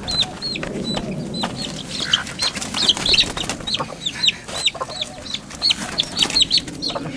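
Baby chicks peeping: a steady run of short, high calls, each dropping in pitch, two or three a second, with scuffing and rustling between them.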